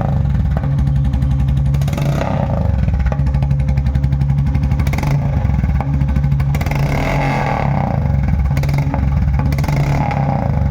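Royal Enfield motorcycle engine, fitted with an aftermarket L-bend exhaust pipe and silencer, running at idle after a winter cold start. The exhaust note is steady throughout, with a few brief brighter swells.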